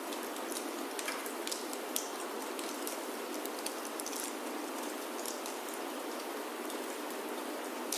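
Steady rain falling on a roof, an even hiss with many scattered sharp drop ticks.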